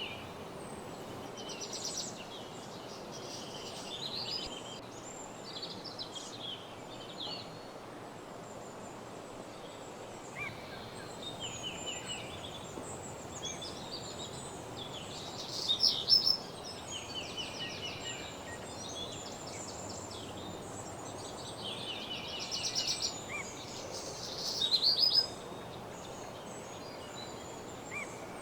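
Woodland songbirds singing over a steady background rush, with many short, fast trilled phrases from several birds. The song is loudest twice, about halfway through and again a few seconds before the end.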